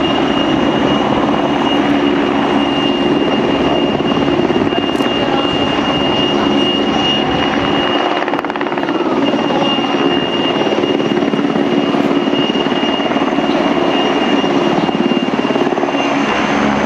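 Helicopter running loudly and steadily, a high turbine whine held over the rotor and engine noise.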